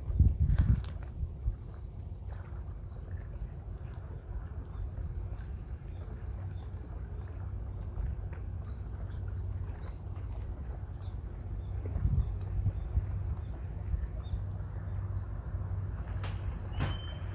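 A steady, high-pitched chorus of summer insects droning without a break, over a low rumble, with a few brief knocks in the first second and again near the end.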